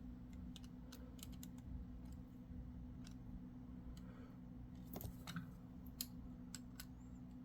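Faint scattered clicks and light taps of a plastic HO-scale model freight car being handled and set on a surface, its wheels touching down as the axles are checked for engagement, over a steady low hum.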